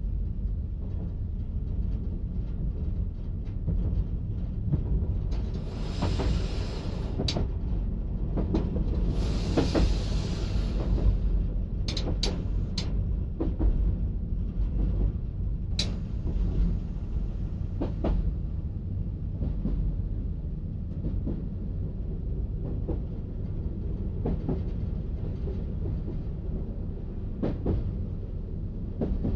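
Diesel multiple unit running along the track, heard from the cab: a steady low rumble with irregular sharp clicks from the wheels over rail joints, and two spells of rushing hiss about six and ten seconds in.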